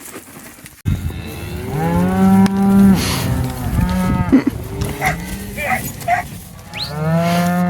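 Cattle mooing: a run of long, loud moos one after another, beginning suddenly about a second in, with a few shorter, higher calls in the middle.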